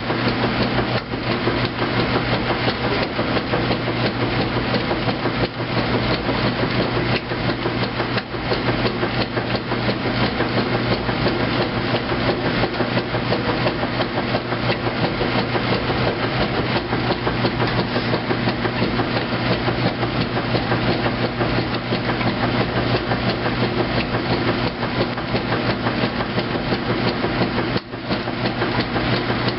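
2008 Kenmore top-load washing machine agitating on its heavy duty cycle. A steady motor hum runs under a rapid, continuous clatter, with a brief dip near the end.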